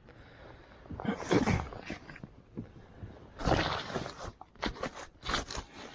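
Irregular scraping and crunching as a loaded kayak is hauled along the ground, with louder scrapes about a second and a half in and again about three and a half seconds in.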